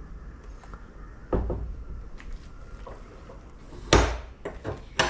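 A few sharp, dull knocks, the loudest about four seconds in, with fainter taps between them.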